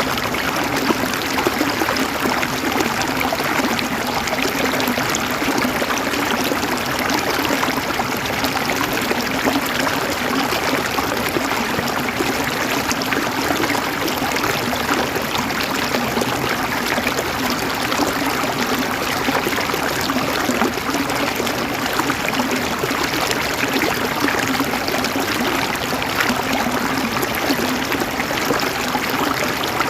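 River water flowing and burbling over stones, a steady dense rush with fine splashes throughout.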